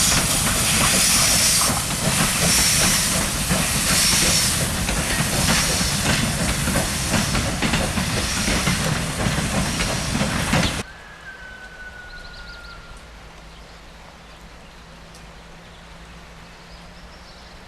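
CFR 231.065 steam locomotive venting a loud hiss of steam, surging at regular intervals, while it moves slowly. The sound cuts off suddenly about eleven seconds in, leaving a much quieter background with a faint low hum.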